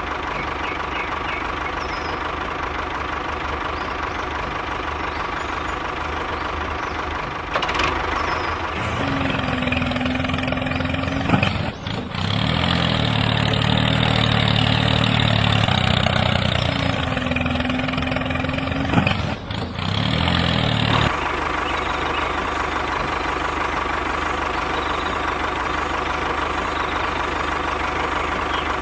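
Tractor engine running steadily, then louder and heavier for about twelve seconds from about nine seconds in, before settling back to a steady run.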